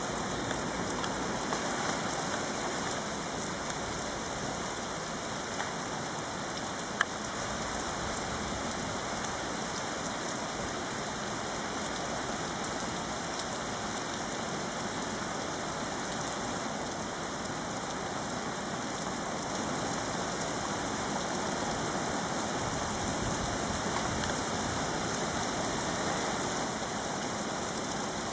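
Heavy rain falling steadily, a dense even hiss, with one sharp tick about seven seconds in.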